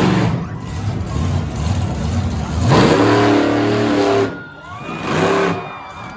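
Monster truck engine revving hard: the pitch sweeps up about three seconds in and is held loud for about a second before the throttle is cut. A shorter blip of throttle follows near the end.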